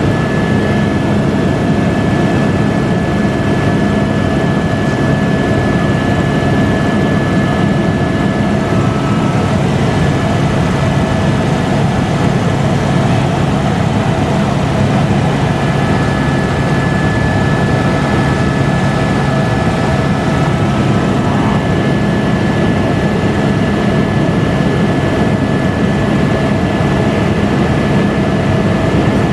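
Helicopter in flight: a loud, steady drone of engine and rotor with a thin constant whine on top.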